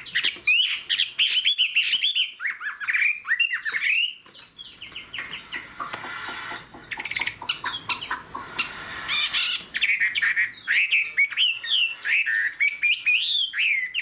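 Chinese hwamei singing a rapid, continuous run of varied whistled notes and slurred phrases, with a short lull about four seconds in.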